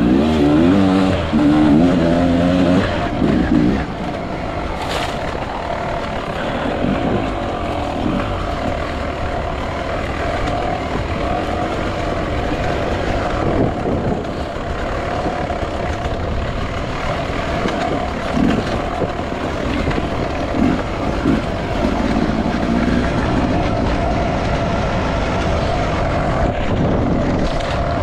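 Enduro dirt bike engine revving up and down for the first few seconds, then running at a steady pitch under a rough rush of noise, with a few brief blips of throttle later on.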